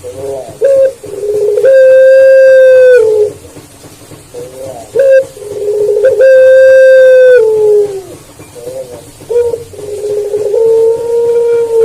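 Puter pelung dove (collared dove) cooing: three long, drawn-out coos on a steady low note, each ending with a slight drop, with short clipped notes between them.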